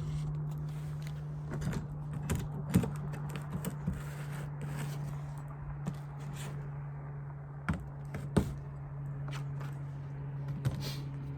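Wooden beehive equipment knocking and clicking as the dead-out hive is handled and taken apart, with a dozen or so irregular knocks, the sharpest about three seconds in and again about eight seconds in, over a steady low hum.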